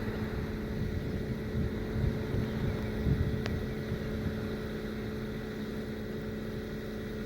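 Steady hum of an idling vehicle engine, with a single short click about three and a half seconds in.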